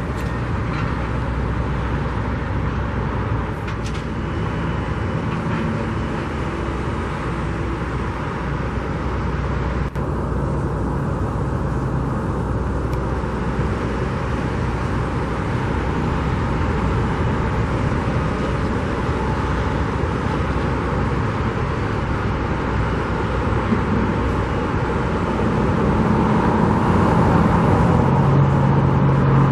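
Steady rumble of vehicle and heavy-machinery engines at a construction site, with one engine growing louder near the end.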